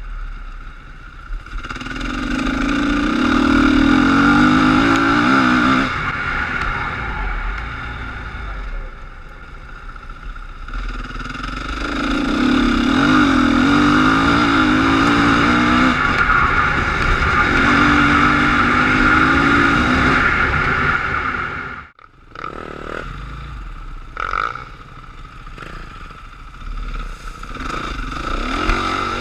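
KTM enduro dirt bike engine revving hard under acceleration in two long loud pulls, with quieter running between them. About three-quarters of the way through the sound cuts off abruptly, and a quieter, uneven engine sound follows.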